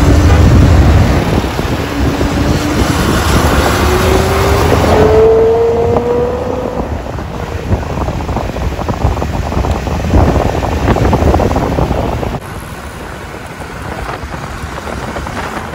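Ferrari 812 Superfast's naturally aspirated V12 accelerating, one engine note rising steadily in pitch for about six seconds, with wind noise on the microphone. About three-quarters of the way through the level drops suddenly, leaving mostly wind noise and road rumble.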